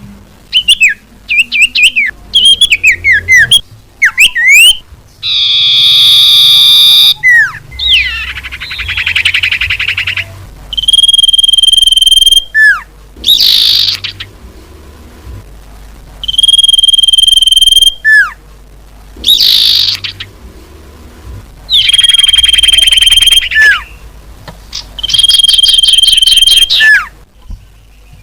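Recorded lure call of an iora (cipoh): long, drawn-out whistles, each ending in a short falling note, repeated about every two to three seconds, with quicker chattering trills in between. Loud, played back at high volume.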